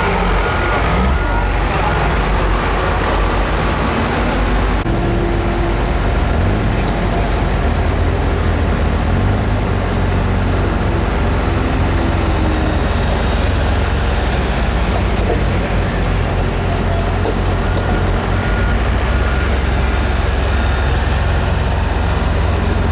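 Loud, steady engine noise from a Pro Stock pulling tractor's turbocharged diesel engine running hard under load during a pull.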